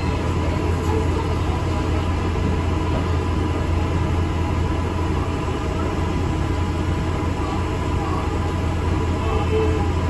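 Interior ride noise of an ADL Enviro 400 MMC double-decker bus on the move: a steady low engine and drivetrain drone with road and body noise.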